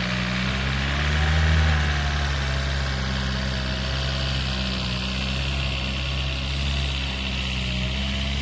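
Homemade tractor's engine running steadily while ploughing. It swells briefly louder, with a slight rise in pitch, about a second and a half in.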